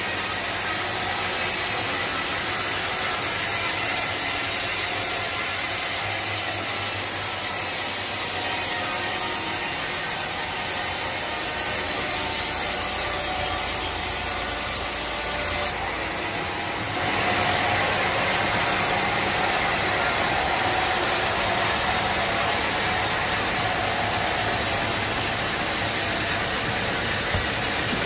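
Sawmill saw running and cutting through teak timber, a loud steady noise with a faint whine. About halfway through, the sound cuts off abruptly and a second stretch of steady machine noise begins.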